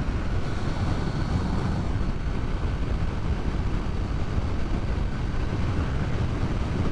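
Motorcycle cruising at steady highway speed: a continuous rush of wind over the microphone with engine and road noise underneath.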